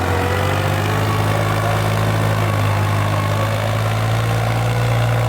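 Tractor engine running at a steady speed, a loud, even low drone.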